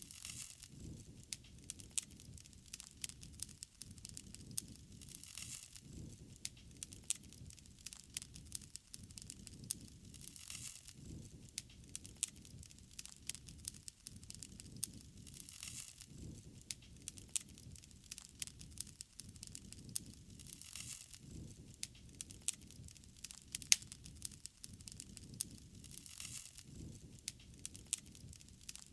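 Wood fire crackling, with frequent sharp, irregular pops and snaps. A soft rushing swell recurs about every five seconds.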